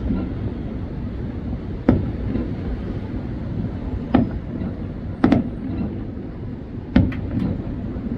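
A series of sharp, short bangs at irregular intervals, about six in all, several of them close together near the end, over a steady low rumble.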